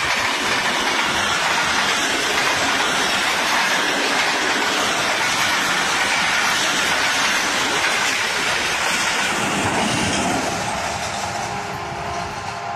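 Diesel-hauled passenger train passing at speed: a steady rush of wheel and rail noise as the coaches go by. It eases off about ten seconds in as the last coach passes and the train moves away.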